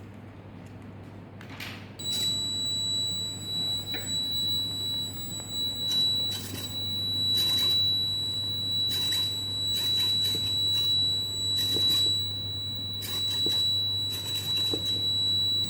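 Arduino piezo buzzer switching on about two seconds in and holding one steady high-pitched tone, the scarecrow's alarm on detecting movement. Over it come short bursts of noise about every second from the motors moving its arms, above a steady low hum.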